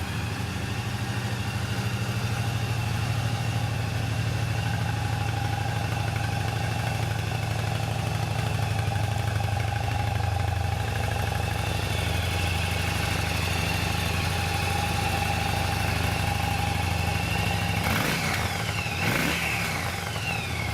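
2004 Yamaha V Star 1100 Classic's 1100cc carbureted V-twin running steadily at idle, its throttle blipped up and back down briefly near the end.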